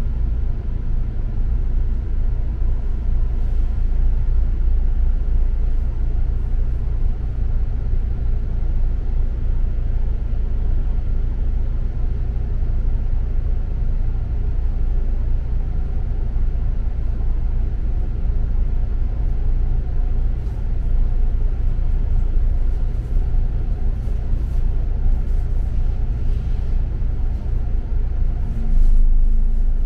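Double-decker bus on the move, heard from a passenger seat: steady engine and road rumble. A brief louder hum comes near the end.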